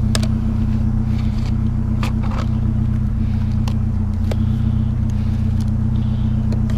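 Pickup truck engine idling steadily, with a few short sharp clicks over it.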